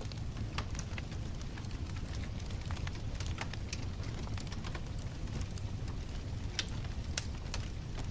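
Wood bonfire burning: a steady low rumble of flames with many irregular sharp crackles and pops from the burning wood.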